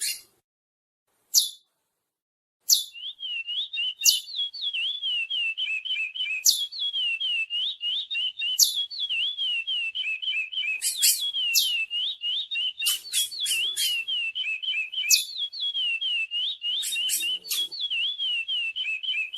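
Chestnut-bellied seed finch (curió) singing: a few short sharp notes, a brief pause, then from about three seconds in a long, fast, unbroken run of warbled whistled notes, broken now and then by sharp high chips.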